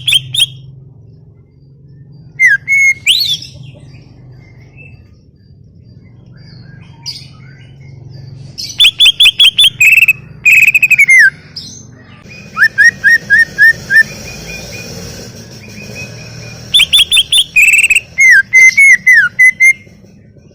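Cucak ijo (green leafbird) singing in loud, separate phrases of rapid, repeated sharp notes, many of them slurring downward, with pauses of a few seconds between phrases.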